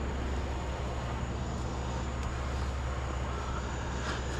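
Steady running noise of a vehicle being driven: an even low engine hum under a constant wash of road noise.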